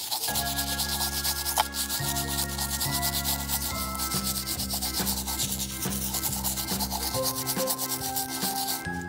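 Small bristle brush scrubbing a muddy toy car: a fast, steady rasping of many short strokes that stops near the end. A backing tune with a bass line plays underneath.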